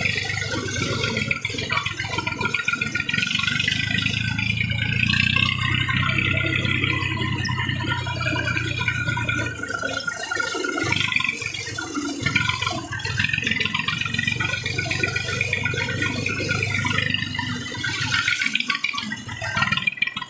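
Massey Ferguson 240's three-cylinder diesel engine running steadily with a busy rattle from the tractor.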